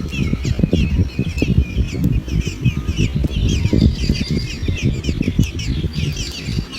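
Birds chirping rapidly: many short, overlapping falling chirps throughout, over a low rumbling noise.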